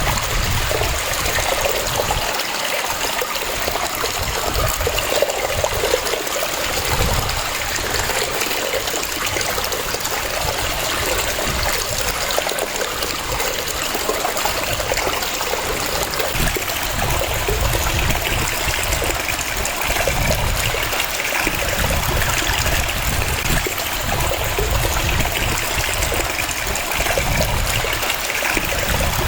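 Waterfall: water cascading and splashing in a steady, even rush.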